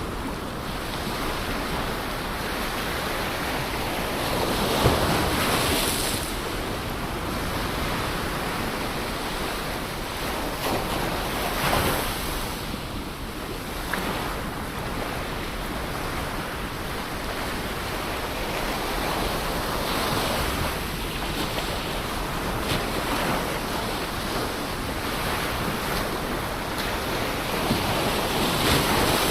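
Ocean surf: waves breaking and washing ashore, swelling louder about every seven to eight seconds over a continuous hiss of moving water.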